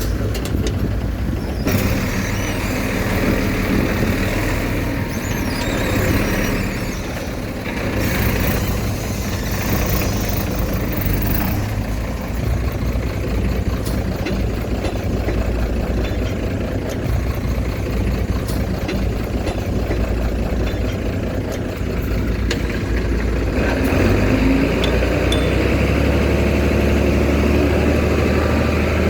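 Heavy diesel earthmoving machinery running continuously, its engine note rising and falling with load, then settling into a steadier, deeper hum near the end.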